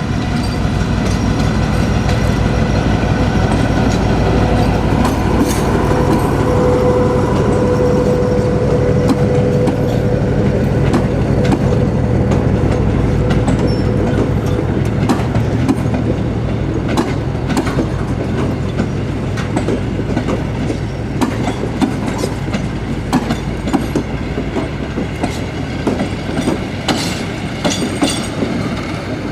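Diesel multiple unit running on the line, its diesel engine rumbling steadily while the wheels click over rail joints, the clicks coming thicker toward the end. A steady high tone sounds from about six to fourteen seconds in.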